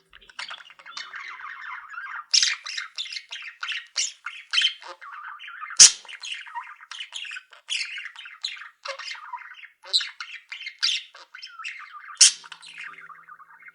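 A flock of pet budgerigars chattering continuously, with frequent short, sharp squawks over the warbling; two calls, about six and twelve seconds in, are louder than the rest.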